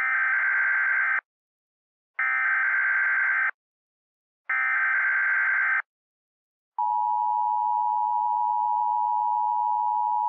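Emergency Alert System header tones from a mock alert: three short bursts of digital data tones, each about a second long, then the steady two-tone EAS attention signal starting about seven seconds in.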